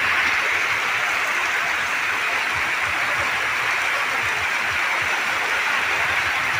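Heavy rain pouring down on a road, a muddy verge and puddles: a steady, loud, even hiss.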